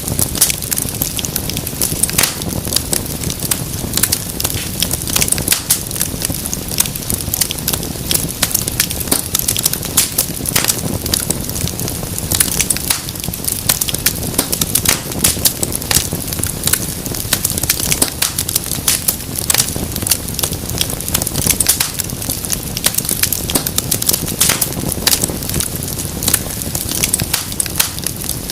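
Fire in a fireplace crackling, with many irregular sharp pops and snaps over a steady low rumble of flames.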